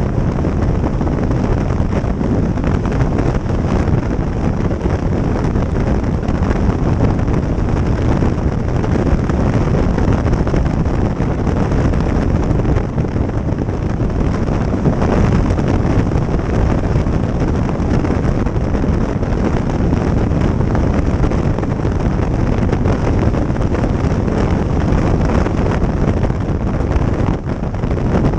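Wind rushing over the microphone of a moving motorcycle at road speed, a loud, steady, deep rush with the bike's running noise beneath it.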